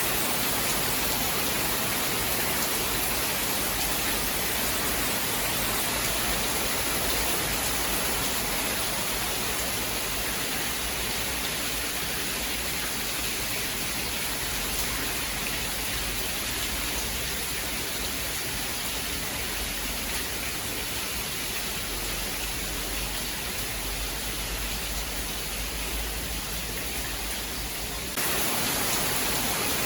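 Steady rain falling, an even hiss with no distinct drops or thunder claps. About two seconds before the end the sound changes abruptly and gets slightly louder.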